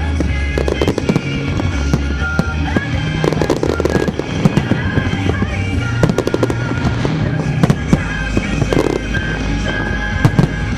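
Aerial fireworks going off in many sharp bangs and crackles, over loud music with a steady bass line.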